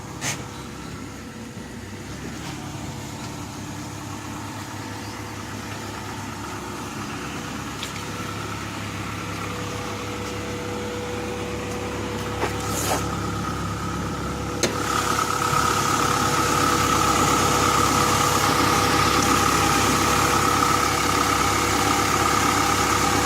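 Honda B16A2 1.6-litre DOHC four-cylinder, built with forged pistons and rods, idling steadily while it warms up after its first start. About two-thirds of the way through it gets louder and a steady whine joins in, with a few short clicks along the way.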